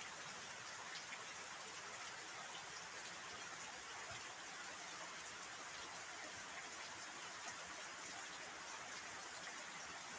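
Steady rain falling, a soft even hiss with many small drop ticks scattered through it.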